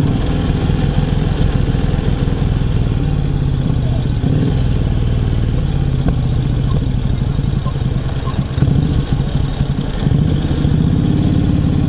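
Brough Superior SS100's JAP V-twin engine running steadily, wavering briefly and then settling again near the end.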